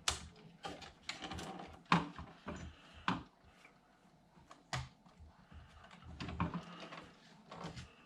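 Scattered light clicks and knocks, a second or so apart, of hands handling a plastic RC truck and its transmitter.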